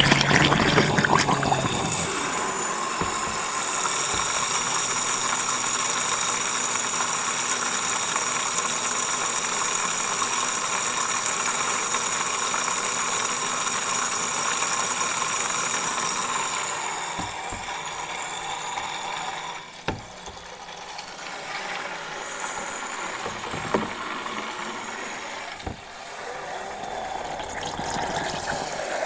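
Cordless vacuum cleaner motor running with a steady high whine, mixed with water sounds. The whine fades out between about sixteen and twenty seconds in, leaving quieter water sounds and a few knocks.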